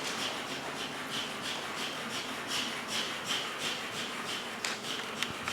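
Rapid rasping strokes of a hand tool working the wall material, about three a second, with a couple of sharp clicks near the end.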